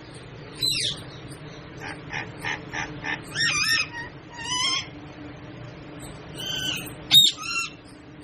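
Pet parrot calling: a short falling whistle, then a quick run of about five short calls, followed by several longer warbling calls, the sharpest and loudest one near the end.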